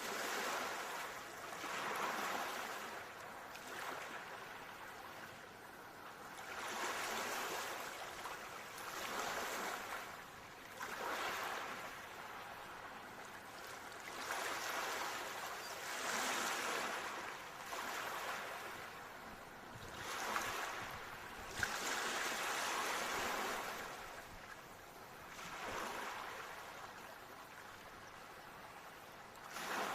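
Ocean waves surging and washing in, one swell of surf noise after another every two to four seconds.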